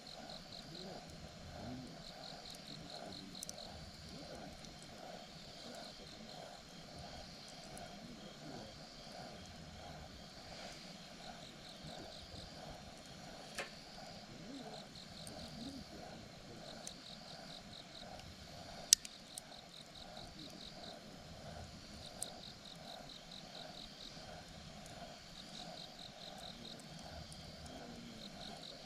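Campfire crackling with a few sharp pops, the loudest about two-thirds of the way through, over insects chirping in short trills that repeat every second or two.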